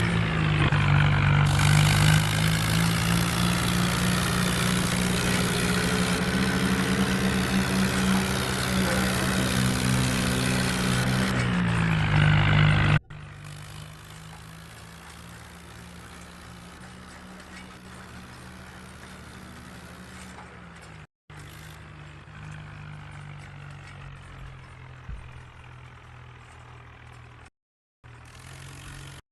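Swaraj 855 tractor's three-cylinder diesel engine running steadily and loud, its pitch easing down briefly near the end of that stretch. After a sudden cut about halfway through, the engine is heard much more quietly, with two brief dropouts.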